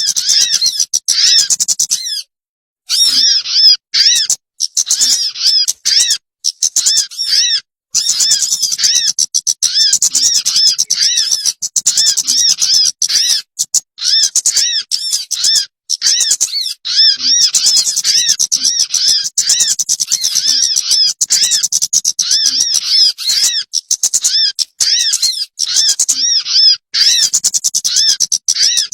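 Bird-trapping lure call (pikat): a fast, unbroken stream of high, arching chirps repeated over and over, with a few short dead-silent gaps.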